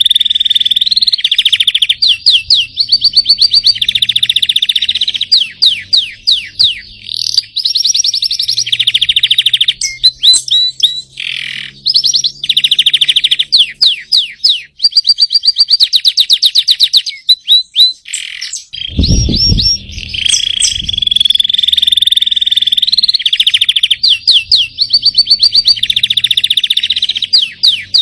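Domestic canary singing a long, continuous song: rapid trills and rolls of fast repeated notes alternating with steadier buzzy tones. A brief low thump sounds about two-thirds of the way through.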